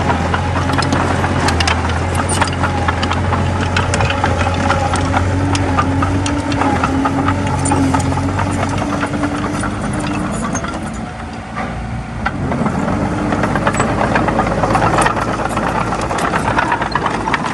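Komatsu D20A bulldozer's diesel engine running steadily with the rattle and clank of its steel tracks while it pushes soil. The engine drops off briefly about eleven seconds in, then comes back up.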